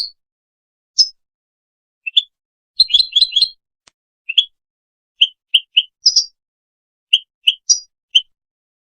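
Goldfinch × canary mule singing: short, separate high chirping notes with gaps between them, and a quick run of about five notes about three seconds in.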